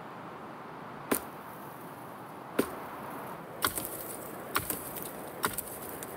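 Hatchet chopping into the branches of a fallen tree: five sharp strikes about a second apart, the later ones followed by a short crackle of twigs.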